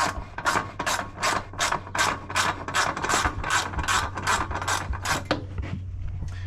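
Socket ratchet clicking in quick, even back-and-forth strokes, about two and a half a second, as it backs out a bolt on a mower engine's blower shroud. The strokes stop about five seconds in. A low steady hum runs underneath.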